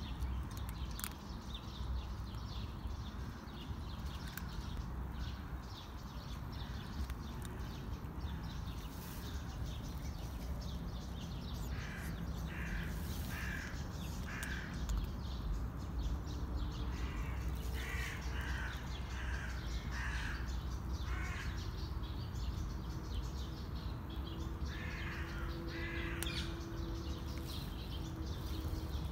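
A bird calling in three runs of short repeated calls, about half a second apart, over a low steady rumble.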